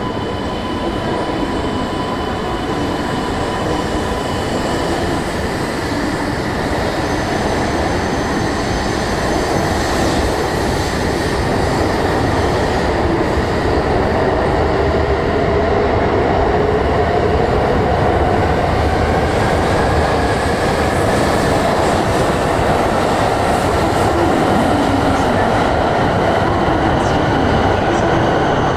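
Coupled E2 and E3 series Shinkansen pulling out and gathering speed: the running noise of wheels on rail, with a whine that slowly rises in pitch, growing louder as the train speeds up.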